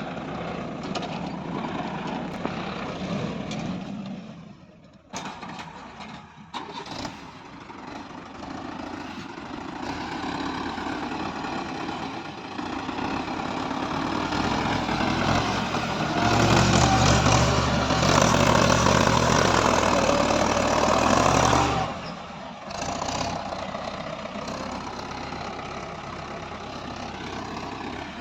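Heavy vehicle engines running, with one growing much louder for several seconds past the middle and then dropping off suddenly.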